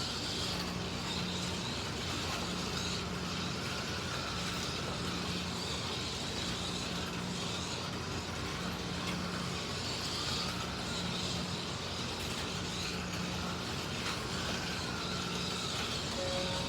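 Slot cars lapping the track: the small electric motors and gears whine, rising and falling in pitch as the cars speed up and slow down for the corners, over a steady running noise.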